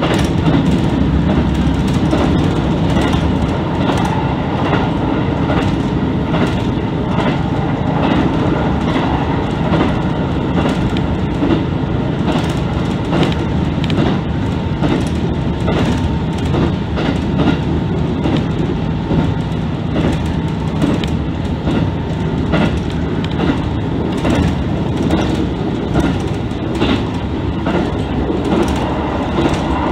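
Interior of a JR Central KiHa 75 diesel multiple unit running at speed, heard from the front car: the diesel engine's steady hum under the rumble of the wheels, with the clickety-clack of wheels over rail joints. The engine note drops away about three-quarters of the way through as the train eases off.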